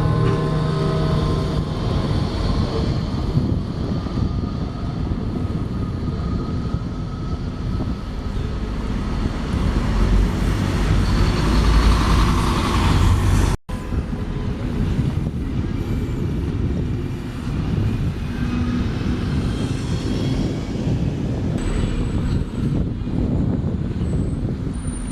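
Steady low rumble of large public-transport vehicles on the move, with a pitched multi-tone sound fading out in the first couple of seconds. About halfway through the sound cuts off abruptly and picks up on another stretch of vehicle and traffic noise.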